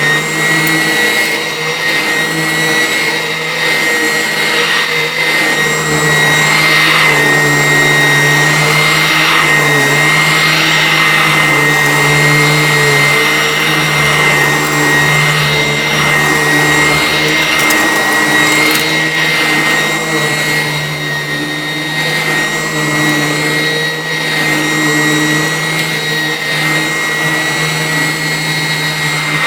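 Vacuum cleaner running steadily and loudly, with a high whine over a low motor hum and lower tones that shift a little in pitch now and then.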